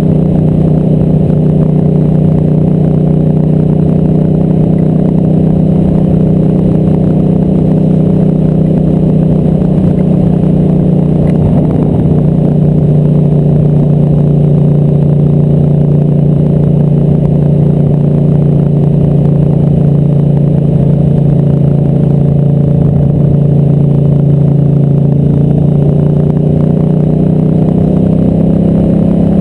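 Ducati Multistrada 1000's air-cooled V-twin running steadily while riding along at cruising revs. The pitch shifts briefly about twelve seconds in, and the revs rise a little near the end.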